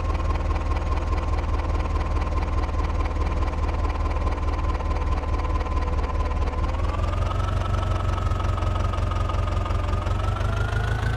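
John Deere tractor's diesel engine running steadily, its pitch rising in two steps, about two thirds of the way through and again near the end, as the revs are raised.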